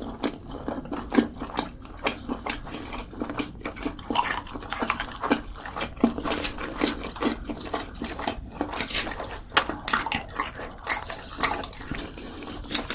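Close-miked eating sounds: wet chewing and mouth smacks, irregular and quick, with crunchier, louder smacks toward the end.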